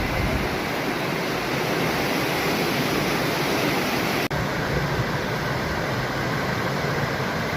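Steady rushing of river water and waterfalls, an even hiss with a very brief break about four seconds in.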